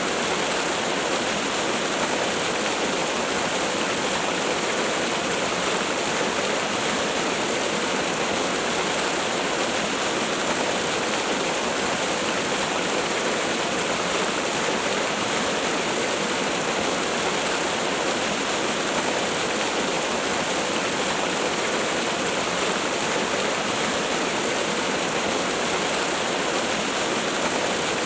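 Waterfall: falling water rushing steadily in an even hiss, with little low rumble and no change throughout.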